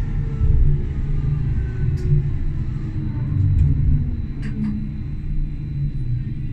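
Tram running with a heavy low rumble of wheels on rail and a faint motor whine falling steadily in pitch as it slows, with a few sharp clicks along the way.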